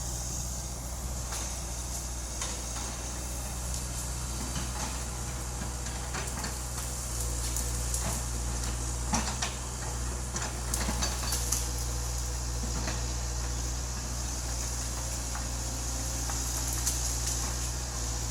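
Excavator's diesel engine running steadily with a low hum, with scattered knocks and clanks that come thicker for a few seconds in the middle.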